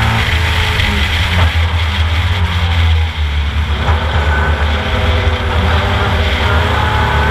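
Ford Capri race car's engine heard onboard at racing speed. The engine note is less distinct through the middle as the car goes into a bend, then picks up and rises in pitch near the end as it pulls out.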